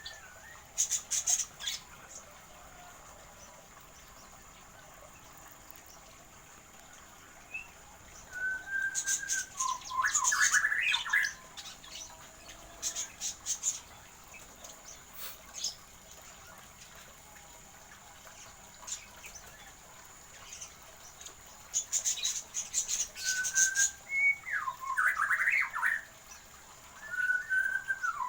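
Birds in a small aviary calling: bursts of sharp, high chirps and squawks. Three times a call sounds that starts with a short steady whistle and runs into a quick warbling phrase.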